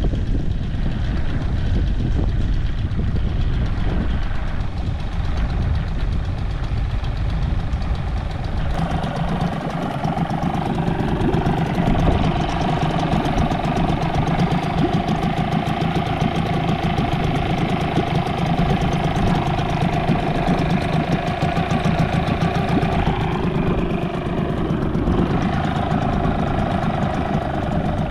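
Wind rumbling on the microphone, then about nine seconds in a 4 hp Mariner outboard motor catches and runs at a steady idle, its note dipping briefly near the end. It is the motor's first run after a new water-pump impeller was fitted, run to see that it pumps cooling water.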